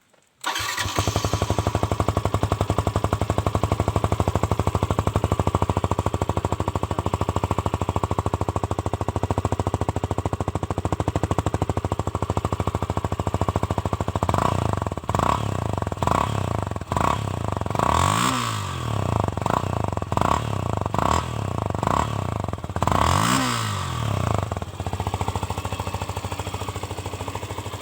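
Yamaha FZS V3's single-cylinder engine running through an exhaust whose inner muffler pipe has been cut out. It idles steadily for about half the time, then is blipped repeatedly, with two longer revs that rise and fall in pitch.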